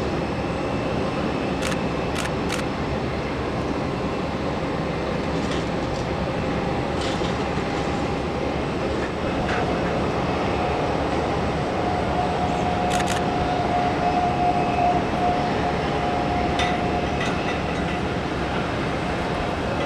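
Steady rumble of an Airbus A321's IAE V2500 jet engines, with a high whine that grows stronger about halfway through, and a few faint clicks.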